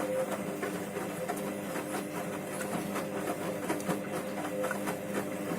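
Candy Grand'O Vita front-loading washing machine in its wash phase on an eco cycle: the drum motor runs with a steady hum while the tumbling load and water make a run of small irregular knocks and splashes.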